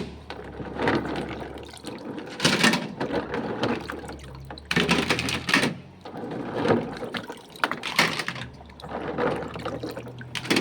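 Water splashing and pouring in irregular bursts, a few seconds apart.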